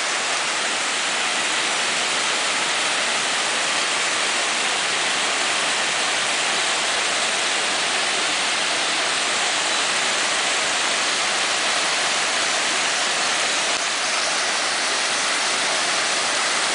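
Steady, loud rush of falling water from a waterfall about 80 m high, with no change in level.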